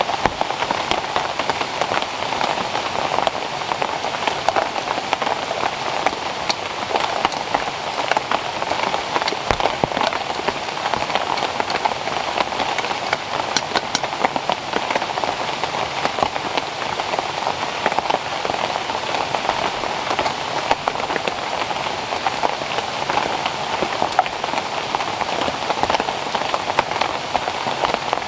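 Steady rain falling, a dense patter of many small drops hitting surfaces, unchanging throughout.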